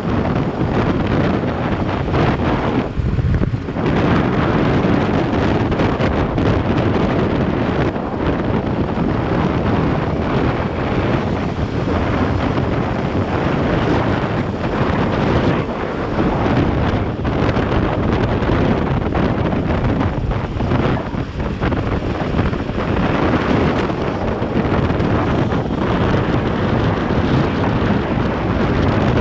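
Steady, loud wind rushing over the camera microphone on a moving vehicle, with road and vehicle noise underneath.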